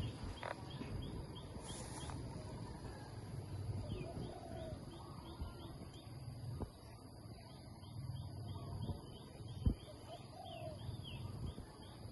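Bird chirping, a quick even series of short high chirps, about three a second, over a low rumbling background. Two sharp knocks come near the middle and later on.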